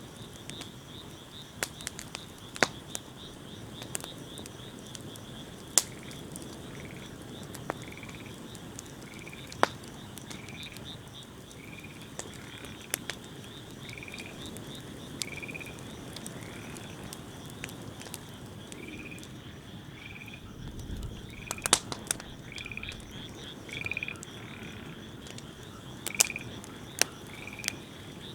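Wood fire crackling, with scattered sharp pops over a low steady rush. Behind it, a small animal gives a short call about once a second, starting about six seconds in, against a steady high drone.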